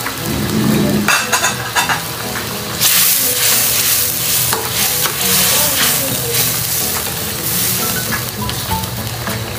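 Squid adobo sizzling in a sauce in a wok over a gas flame, with a spatula stirring through the squid and peppers and clicking against the pan. The sizzle grows louder about three seconds in.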